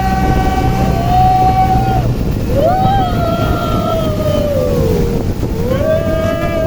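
Motorboat engine running hard with a high whine. The pitch holds steady, dips about two seconds in, then twice climbs quickly and sinks slowly as the throttle is opened and eased. Under it is a loud low rush of wind and water.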